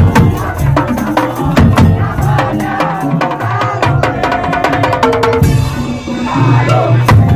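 Madurese tong-tong (ul daul) ensemble playing: a dense, fast beat of wooden slit drums and drums with a melodic line over it, and a crash-like hiss a little past halfway.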